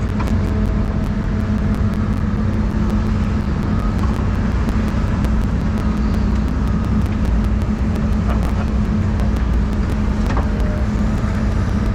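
Doosan 350 excavator's diesel engine running steadily, a loud, even low drone with a fast, light ticking over it.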